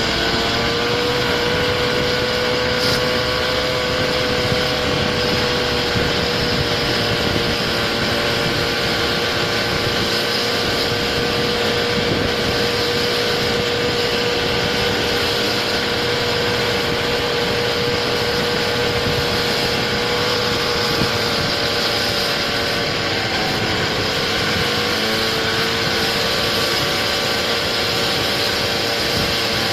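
Small engine of a motorised stand-up scooter running at a steady speed while riding. Its pitch holds level, sags a little past the middle and picks up again near the end, over a constant rush of noise.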